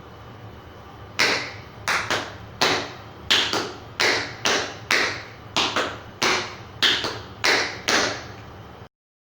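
Metal taps on tap shoes striking the floor in a rhythmic tap-dance sequence: about fifteen sharp, ringing clicks, roughly two a second with some quick doubles, starting about a second in.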